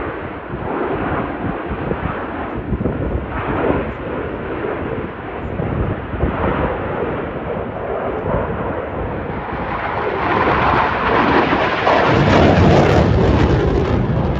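Jet noise from Blue Angels F/A-18 Super Hornets flying overhead, swelling louder and brighter from about ten seconds in as a jet passes close, then easing off near the end.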